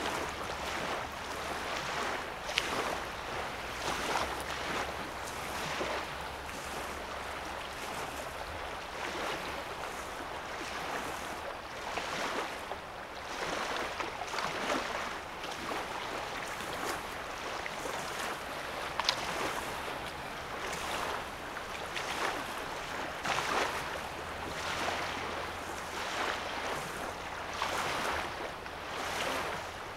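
Small lake waves lapping and washing onto a sandy shore, a soft wash every second or two.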